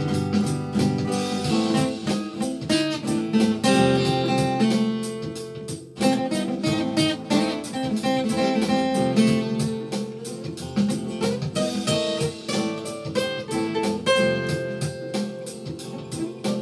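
Instrumental passage of a rock song, with a strummed acoustic guitar keeping a steady rhythm and no singing. It eases off briefly about six seconds in, then comes straight back in.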